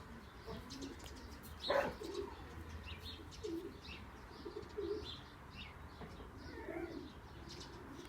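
Pigeons cooing softly in short low calls, with scattered high chirps of birds. A single sharp click sounds a little under two seconds in.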